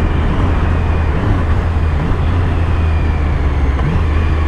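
Triumph Street Triple S inline-three engine running at a steady cruise, heard from the rider's helmet, with a constant low drone under wind and road noise. The engine pitch wavers slightly now and then.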